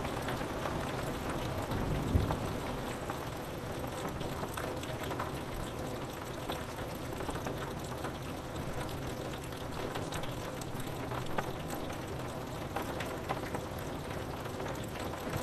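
Steady rain pattering on window glass, with a short low rumble of distant thunder about two seconds in.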